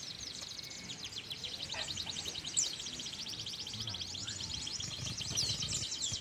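A caged songbird singing a long, fast trill of rapidly repeated high notes, with a few longer falling whistles mixed in.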